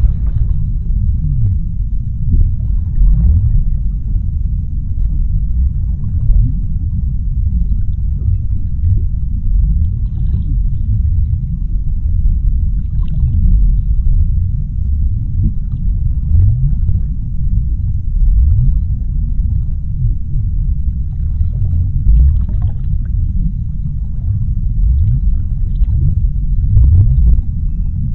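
Underwater ocean ambience: a deep, steady rumble with many short, low swooping and bubbling sounds running through it.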